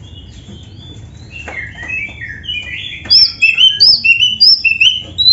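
Oriental magpie-robin singing: soft, broken warbling that becomes loud at about three seconds, with repeated clear whistled notes sliding down and up, two or three a second.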